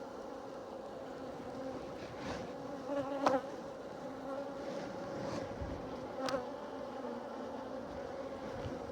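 Honeybees buzzing around an open hive, a steady hum. A few short knocks cut through it, the loudest about three seconds in.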